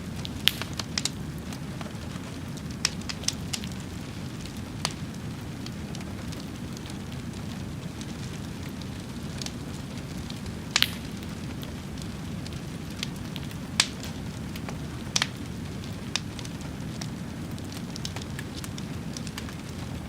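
Wood fire burning: a steady low rush of flames with scattered sharp crackles and pops, the loudest pops about 11 and 14 seconds in.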